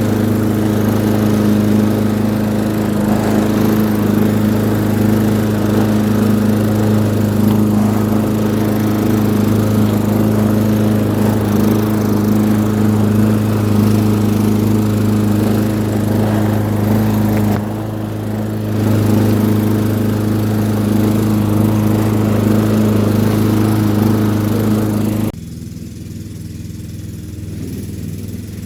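Petrol lawn mower running steadily under load while cutting grass, with a brief dip in level midway. Near the end the sound drops suddenly to a lower, quieter running.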